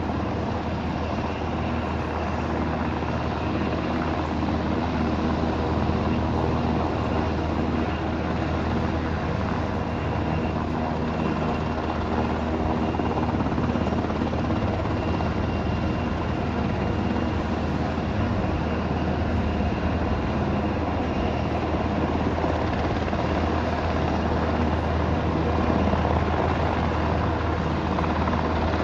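Helicopter rotor and engine running steadily and loudly, a continuous low rotor drone that holds without a break.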